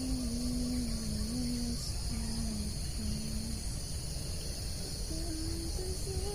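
Steady high-pitched chorus of crickets and other insects, with a slow, soft melody of long held notes playing beneath it.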